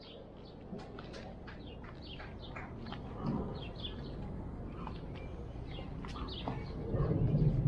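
Small birds chirping: many short, quick, downward-sliding chirps in a steady stream, over a low rumble that grows louder near the end.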